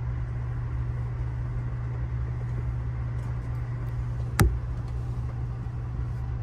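Steady low rumble and hum of a moving passenger train heard from inside the car as it pulls out of the station, with one sharp click about four and a half seconds in.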